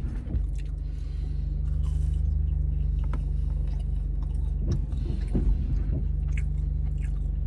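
Someone biting and chewing a waffle fry dipped in ranch, with a few short crunches and mouth sounds, over the steady low hum of a car's engine running.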